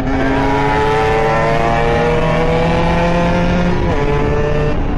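Beta RR 50 two-stroke engine, fitted with a 70cc Airsal kit and an SCR Corse expansion exhaust, pulling under load while ridden. Its note climbs slowly for nearly four seconds, then dips briefly and carries on.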